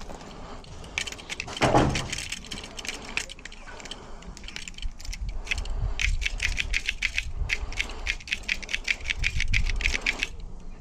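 Small metal clicks and rattles of a uPVC door lock gearbox mechanism being handled and worked, with a louder knock about two seconds in and a quick run of clicks in the second half.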